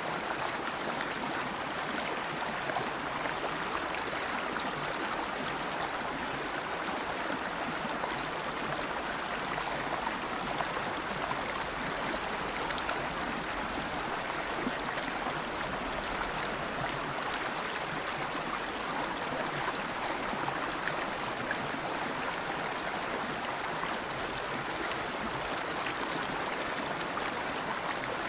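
River water flowing over rocks: a steady, even rush and gurgle.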